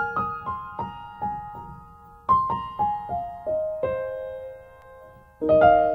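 Instrumental intro of a hip-hop beat: a piano-like keyboard plays short falling runs of single notes, each note ringing and dying away. The runs break off after about two seconds and again after about five, with no drums.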